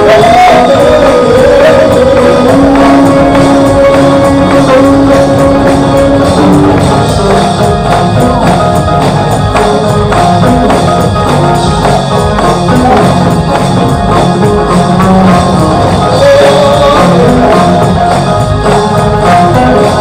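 Loud live gospel music: sung vocal lines with a tambourine shaking over the band.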